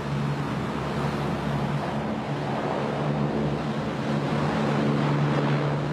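LCAC hovercraft running, its gas turbines and propellers making a steady low hum over a dense rushing noise that grows slightly louder near the end.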